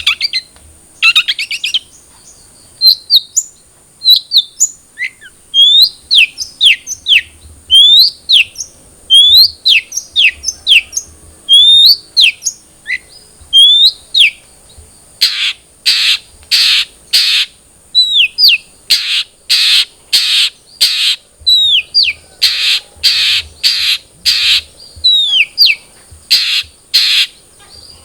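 Long-tailed shrike (cendet) singing: a series of sharp whistled notes that fall and hook in pitch, then, about halfway through, loud harsh rasping calls repeated about twice a second, mixed with more whistles. A faint steady high-pitched tone runs behind it.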